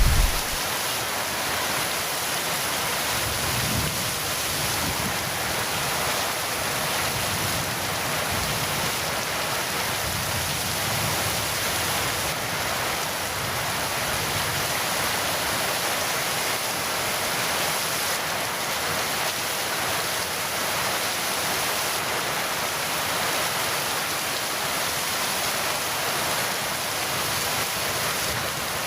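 Heavy rain pouring steadily, an even hiss with no let-up; the tail of a thunder rumble dies out in the first moment.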